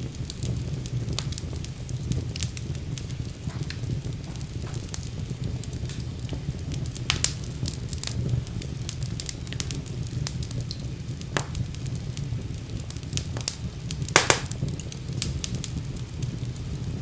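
Wood fire burning in a fireplace: a steady low rumble of flame with scattered crackles and pops, one sharper pop about fourteen seconds in.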